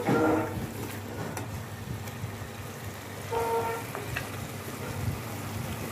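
Spiced beef and cauliflower masala sizzling in a metal pot as a steel spoon stirs it, over a steady low hum. A short pitched tone sounds briefly at the start and again about three and a half seconds in.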